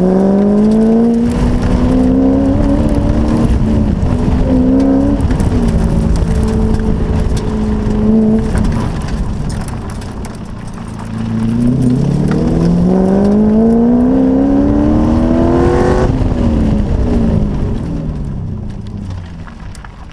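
Sports car engine driven hard: the revs climb and hold for several seconds, dip around the middle, climb steeply again, then fall away sharply as the car slows, growing quieter near the end.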